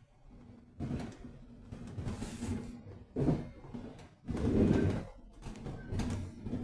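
Irregular knocks, rattles and rumble inside a moving Thameslink Class 700 electric train carriage, loudest about four and a half seconds in.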